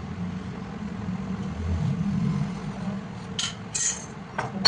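Milling machine running with a steady low hum, with a few sharp metal clinks in the last second or so, the last one the loudest.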